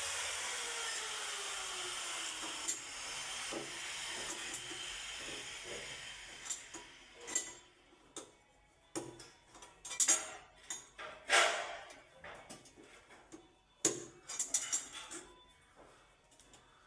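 A steady work noise fades away over the first few seconds, with a faint falling tone under it. Scattered clicks and knocks of tools or material being handled follow.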